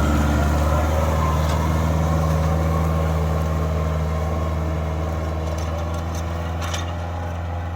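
Kubota MU4501 tractor's diesel engine running at a steady speed, gradually growing quieter, with a few faint ticks over it.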